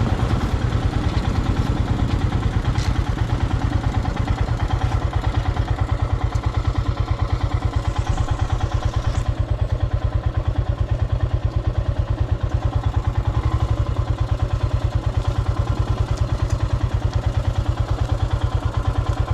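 Royal Enfield Himalayan's single-cylinder engine running steadily with an even pulsing beat as the motorcycle rides along.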